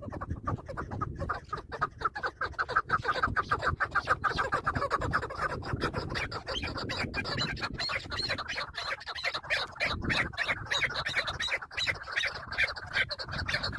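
Chukar partridge calling: a fast run of short clucking notes, several a second, growing more scattered after about the middle.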